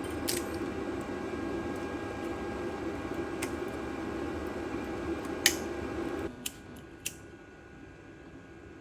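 A few sharp plastic clicks as door trim clips are handled and pressed onto their parts, the loudest about five and a half seconds in. They sit over a steady hum that cuts off abruptly a little after six seconds.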